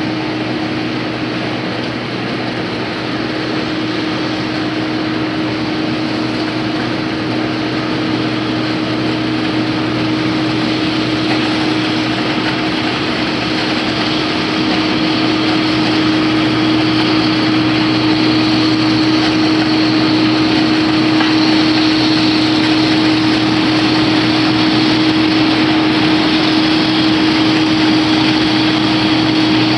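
Combine harvester engine running steadily with a constant hum, getting louder about halfway through.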